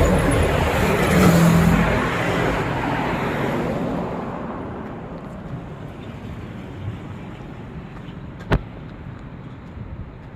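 Road vehicle noise, loud at first and fading steadily over several seconds, with a single sharp click near the end.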